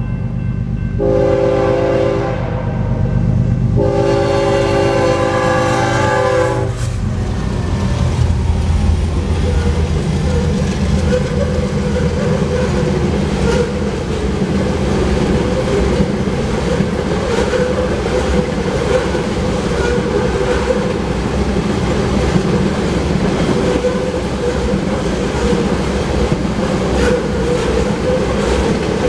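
Diesel locomotive horn sounds twice, a short blast then a longer one, as the lead units of a freight train approach. The locomotives' diesel engines then pass and the loaded tank cars of an oil train roll by in a steady rumble, wheels clacking over the rail joints.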